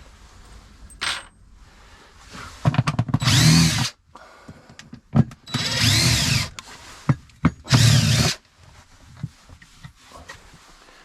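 Power drill/driver run in three short bursts, its motor whine rising and falling in pitch with each trigger pull, with a brief earlier spin and small knocks of handling between.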